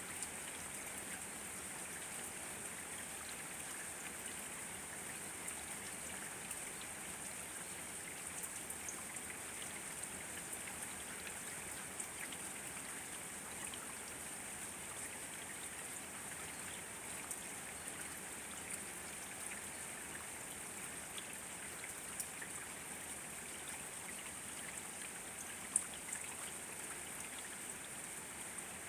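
Steady rain falling, with scattered drops ticking on surfaces and one louder drop near the end.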